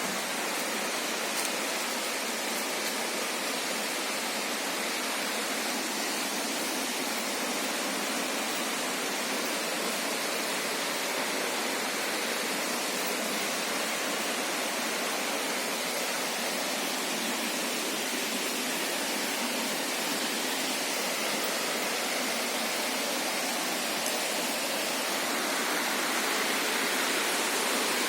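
Steady rush of water from the Orekhovsky waterfall and its river, getting a little louder near the end.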